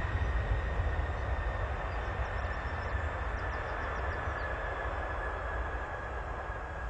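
Boeing 747 jet engines running with a steady rumble and a high whine that slowly falls in pitch as the sound gradually fades.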